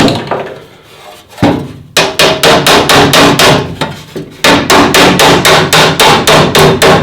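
A hammer dressing the freshly folded sheet-metal flange of a replacement battery tray, beating it back into shape. A fast run of sharp metal blows starts about two seconds in, about five a second, with a short break a little past the middle.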